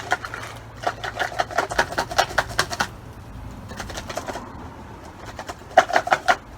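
Dry sticks and a piece of corn cob rattling and knocking inside a plastic water bottle. A quick run of clicks fills the first few seconds, and a shorter, louder burst comes near the end.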